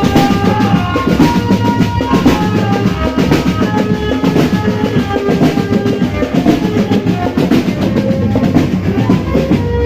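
Marching drum band playing: bass and snare drums beating steadily under a sustained melody line.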